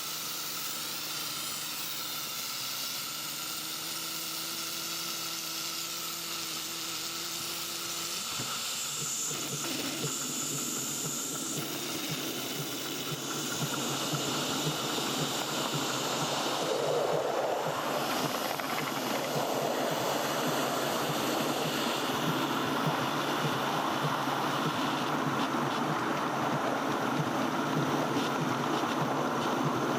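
7¼ inch gauge miniature steam locomotive hissing steam. About eight seconds in, a fast, even rattle sets in, and the sound grows louder from about thirteen seconds.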